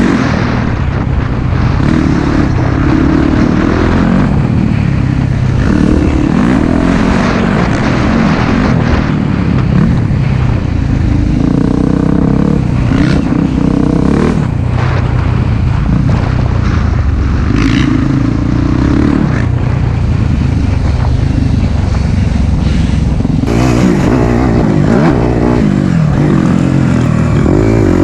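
Four-stroke single-cylinder dirt bike engine running hard, its pitch rising and falling repeatedly as the throttle opens and closes.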